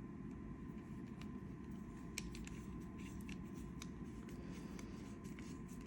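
Small metal clicks and taps as the thumb knob is fitted back onto a folding knife's blade, scattered through the second half with one sharper click a little after two seconds in. Under them run a steady low hum and a faint steady tone.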